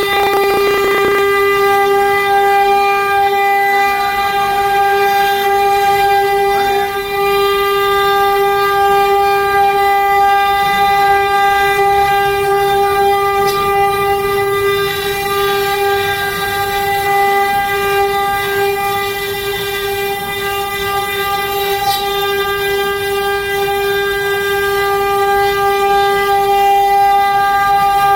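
CNC router spindle running at a steady high pitch while carving wood: one continuous whine with overtones that holds unchanged throughout.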